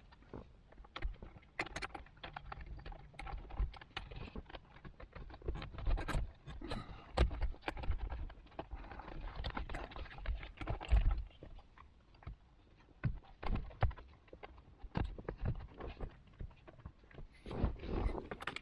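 Irregular clicks, knocks and rustles of hands handling small parts and tools, with a few louder knocks about 6, 7 and 11 seconds in.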